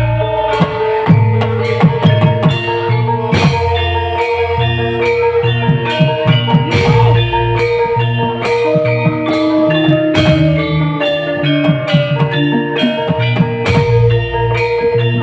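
Live band music: a drum beat with regular strikes over a steady bass line and sustained melodic notes.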